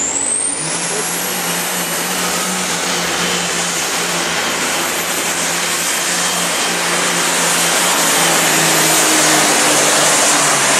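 Diesel engine of a pulling truck or tractor running hard at full throttle, pulling the sled. A high whine climbs over the first second, then holds steady over the loud engine.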